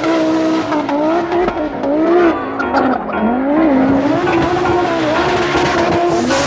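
Group B rally car engine at high revs, its pitch repeatedly climbing and dropping as it accelerates and shifts.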